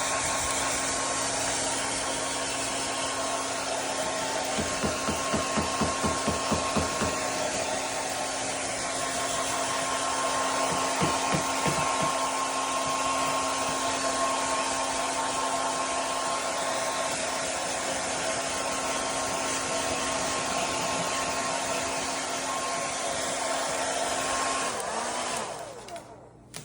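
Hair dryer running on its fan-only setting, no heat: a steady airy rush with a hum and a whine. It is switched off near the end, its pitch dropping as it spins down. Twice, a short run of rapid pulses rides over it.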